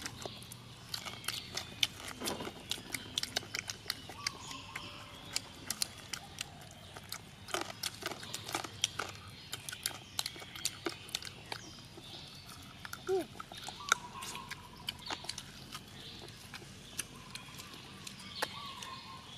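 Several people chewing and smacking their lips while eating ribs by hand, with a steady run of short wet clicks.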